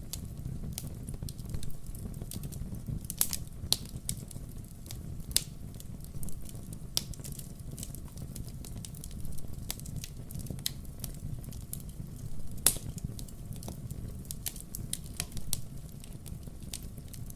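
Wood fire crackling: irregular sharp pops and snaps over a steady low rumble, with the loudest pops about five seconds in and near the end.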